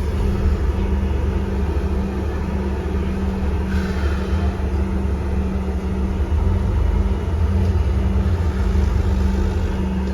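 Steady low drone of an Alexander Dennis Enviro400 MMC double-decker bus's engine, heard from inside the passenger cabin as the bus moves slowly into its stand.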